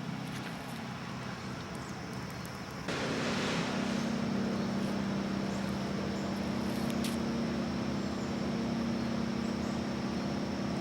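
Steady low mechanical hum under a haze of hiss, which both get suddenly louder about three seconds in and then hold steady.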